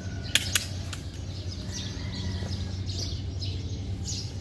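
Small birds chirping, with two or three sharp clicks in the first second over a steady low hum.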